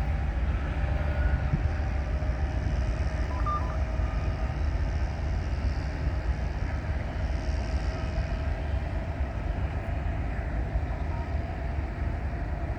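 Caltrain diesel train running, a steady low rumble.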